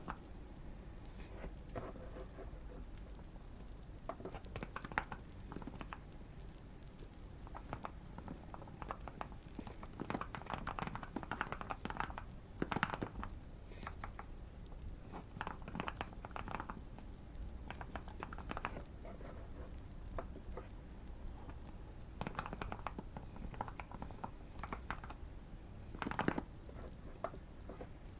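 Typing on a Keychron Q1 mechanical keyboard modded with tape and PE foam: runs of quick keystrokes in bursts with short pauses between them.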